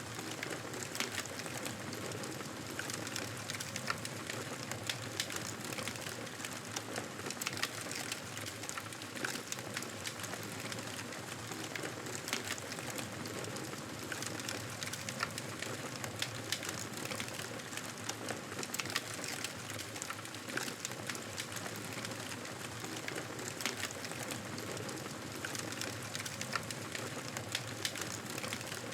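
Wood fire crackling in a fireplace: a steady hiss with many small sharp pops and snaps scattered throughout.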